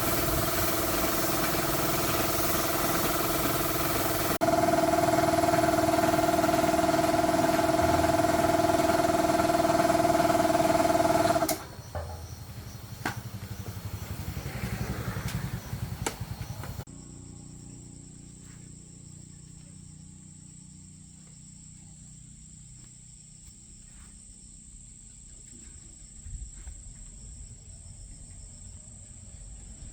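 Win FIGO 110cc motorbike engine running steadily, then held at a higher, louder steady speed about four seconds in, and shut off suddenly about eleven seconds in. Afterwards come light clicks and handling sounds, then a faint steady high-pitched buzz.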